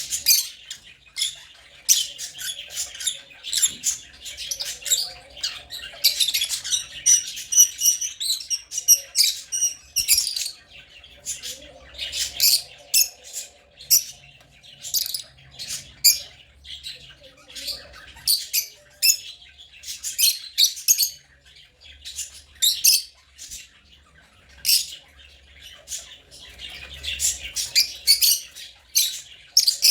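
African lovebirds chirping and squawking: a dense, irregular stream of short, sharp, high-pitched calls from several birds, with brief lulls.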